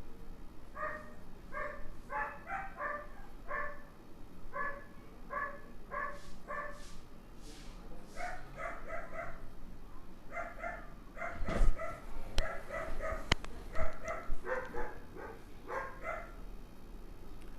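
Repeated short animal calls in quick runs of two or three, steady in pitch, going on through the whole stretch, with a few sharp knocks about two-thirds of the way in that are the loudest sounds.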